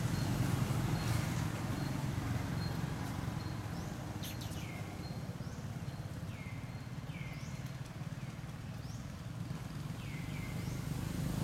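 Outdoor ambience: a bird gives about seven quick calls from about four seconds on, each sweeping down in pitch, over a steady low rumble.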